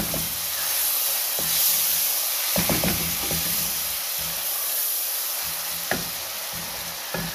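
Fried onions and garlic-ginger paste sizzling in hot oil in a metal pot, with a steady hiss. A wooden spoon stirs them and knocks against the pot a few times.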